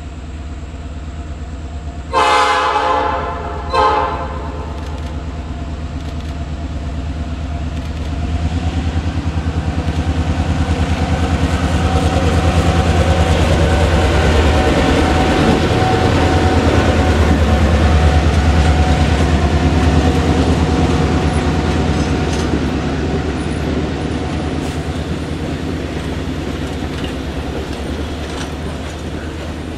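Diesel locomotive horn blows two blasts, a long one about two seconds in and a short one right after. The locomotive's diesel engine then passes with a low rumble that grows louder toward the middle. It is followed by passenger coaches rolling by, their wheels clicking over the rail joints.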